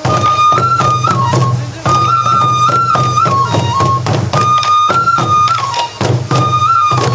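Traditional Sansa odori music: a bamboo flute plays a held melody that steps up and down in short repeated phrases over steady taiko drum beats.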